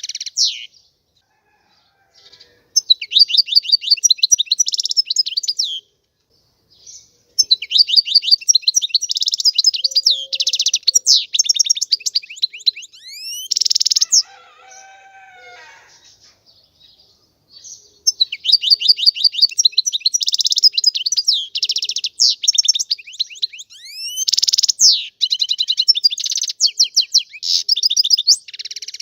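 European goldfinch singing: three long phrases of rapid, high twittering and trills, separated by pauses of a second or two. A fainter, lower warble comes in the middle.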